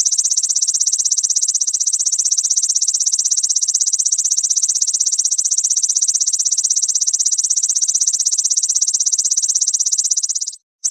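Belalang mas grasshopper stridulating: a loud, continuous, high-pitched buzzing trill of very rapid pulses. It cuts out briefly just before the end, then starts again.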